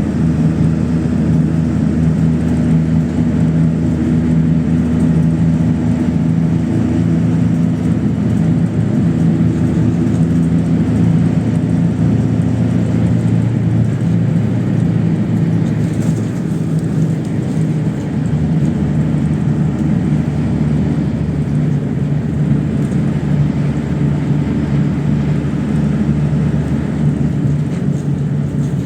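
PAZ-32054 bus driving, engine and road noise heard from inside the cabin. The engine note holds steady, shifts to a lower note about 13 seconds in, then holds steady again.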